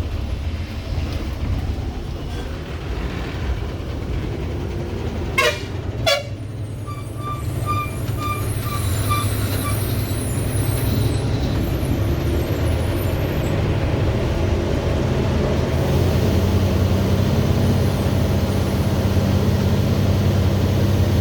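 Heavy truck's diesel engine running steadily, growing louder over the second half. About five and six seconds in there are two short toots, followed for a few seconds by a run of quick beeps.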